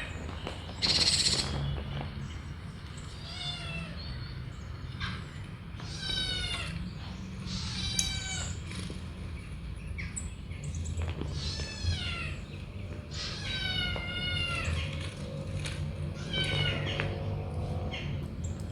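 Kittens meowing over and over: about a dozen high, drawn-out mews that rise and fall in pitch, over a steady low hum.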